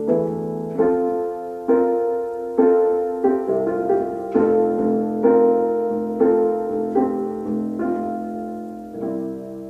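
Piano playing a slow run of chords, struck about once a second, each left to ring and die away. A last chord near the end is held and fades out, like the close of a song.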